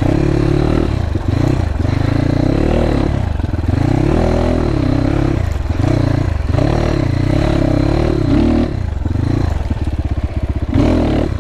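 GPX FSE300R dual-sport motorcycle's engine pulling while being ridden, its revs rising and falling again and again as the throttle is opened and rolled off.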